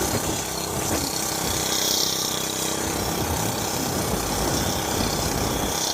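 Oryxearth gas mini bike's small engine running steadily under way, with a steady hiss over it.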